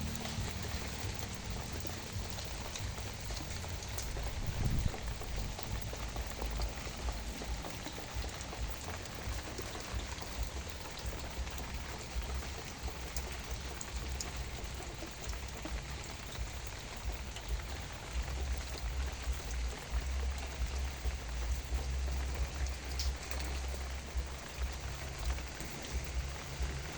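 Steady rain falling on plants, an even patter of drops with a low rumble underneath and a single thump about five seconds in.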